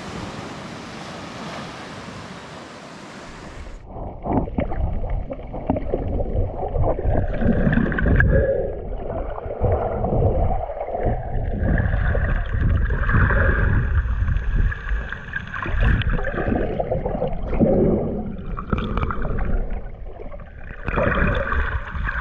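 Ocean surf washing for the first few seconds. Then, about four seconds in, the sound suddenly becomes muffled, with loud, irregular sloshing and gurgling of seawater close to the microphone.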